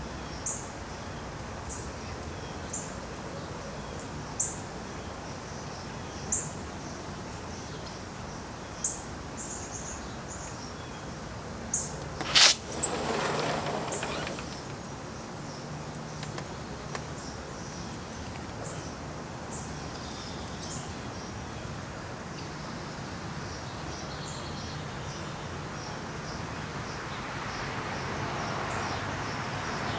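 Small birds chirping, short high notes repeating every second or two over steady outdoor background noise. About twelve seconds in comes a sharp loud bang, followed by a brief rush of noise, and the background grows louder near the end.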